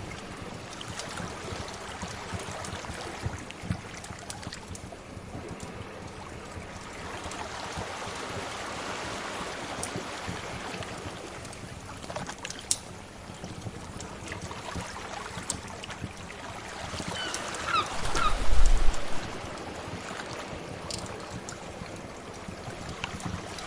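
Sea waves washing in a steady hiss that swells and ebbs, with scattered sharp crackles from a wood fire. About three-quarters of the way through, a louder wave swells with a few short high chirps over it.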